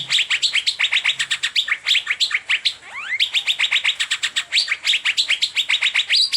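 Asian fairy-bluebird (cucak biru) singing nonstop in the rapid 'teler' style: a fast run of sharp repeated chirps, about eight to ten a second, broken now and then by rising whistled sweeps.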